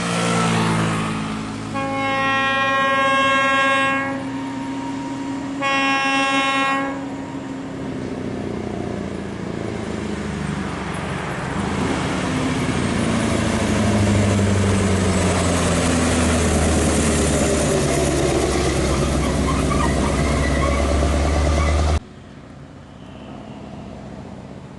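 A heavy truck's multi-tone air horn is blown twice, a long blast and then a shorter one, over a diesel engine. The big diesel engine then runs loudly, its pitch falling and rising as it pulls, and cuts off suddenly near the end.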